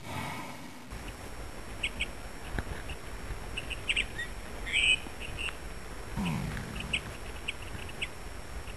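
Outdoor ambience with scattered short bird chirps over a steady low background; the louder call is about five seconds in.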